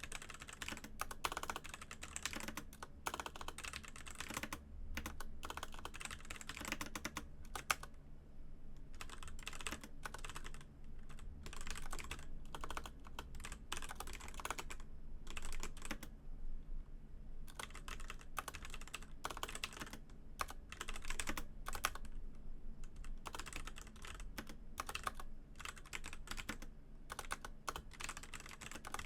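Typing on a Razer BlackWidow Elite mechanical keyboard with Razer Orange switches: quick runs of key clacks, broken now and then by short pauses, over a faint steady low hum.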